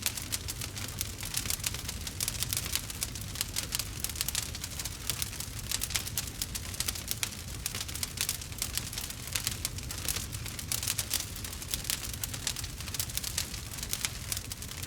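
Wood fire crackling, a dense run of sharp pops and snaps over a low steady rumble.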